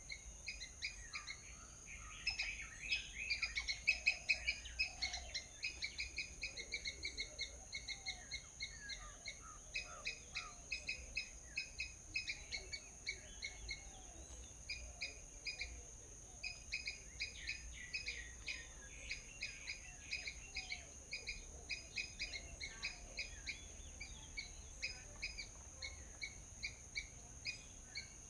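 A flock of small birds chirping, many short quick chirps overlapping without a break, busiest a few seconds in. A steady high whine runs underneath.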